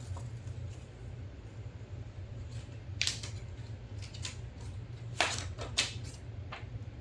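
Paper and packaging being handled and rustled, with a few sharper crinkles about three seconds and five seconds in, over a steady low hum.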